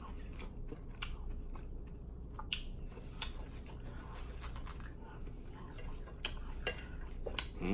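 A person chewing and biting into a seared pork chop, with scattered small sharp mouth clicks and smacks over a steady low hum.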